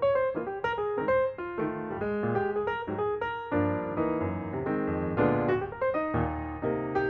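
Background piano music, a flowing run of notes with chords underneath.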